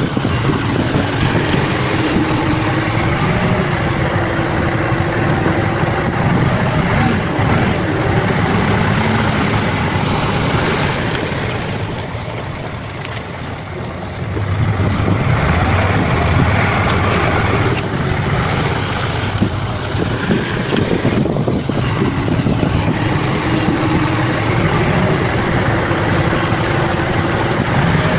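Bulldozer's diesel engine running under work, steady and loud, easing off briefly about halfway through before picking up again.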